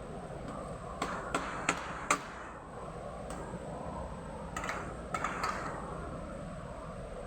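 Sharp clicks and taps of PVC plastic parts being handled, about eight in all, coming in two groups, over a steady background hum.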